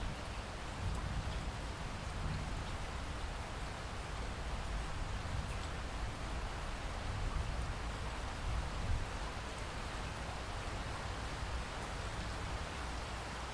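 Steady rainfall, an even wash of rain noise with a low rumble underneath and scattered faint drop ticks.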